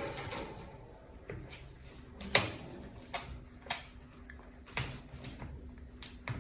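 An Alexandrine parrot bathing: short, irregular splashes and clicks, the sharpest about two and a half seconds in, over a low steady hum.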